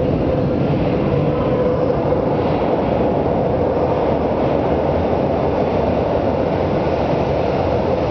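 São Paulo Metro train running through the station: a loud, steady rumble with a faint held whine in the first few seconds.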